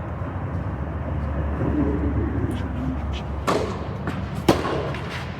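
Tennis ball struck by racket twice, about a second apart, the second hit the louder, with a few fainter ball ticks just before, over a steady low background rumble.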